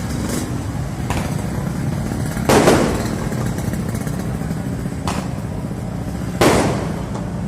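Fireworks exploding: two loud bangs about four seconds apart, with fainter pops between them, over a steady low rumble.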